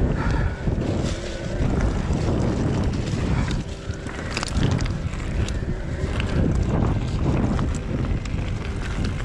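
Mountain bike riding down a rough trail: wind rushing over the microphone and tyres rolling over rocky ground, with frequent sharp knocks and rattles from the bike.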